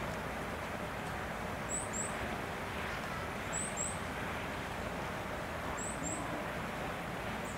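Steady outdoor background noise, with a small bird's high two-note chirp repeated three times, about every two seconds.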